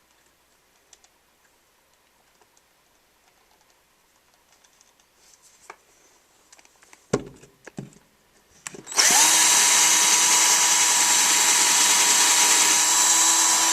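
A few light knocks, then an electric drill spins up and runs steadily at full speed for about five seconds before stopping.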